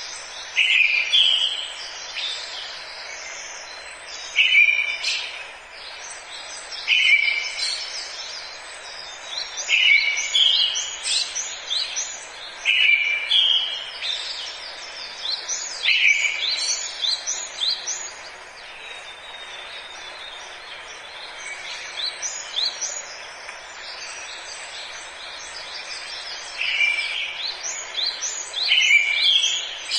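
Forest ambience: several birds singing and chirping over a steady hiss. One bird repeats a short phrase every two to three seconds, with a busy spell of song near the start and again near the end.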